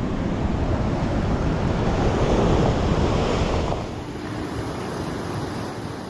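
Surf breaking on the beach with wind buffeting the microphone; the wash swells to its loudest about midway, then eases off about four seconds in.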